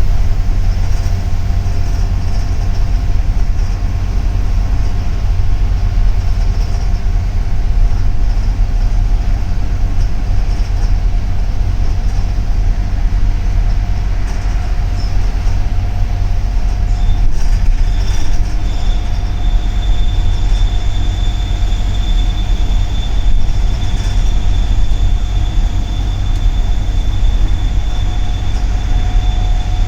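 Cabin noise of a double-decker city bus under way: a steady heavy low rumble of engine and road, with a thin steady whine. A higher-pitched whine joins about two-thirds of the way through and holds.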